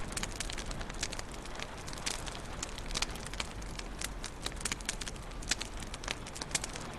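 Wood fire crackling in a fireplace: a steady run of sharp, irregular pops and snaps over a low, even hiss.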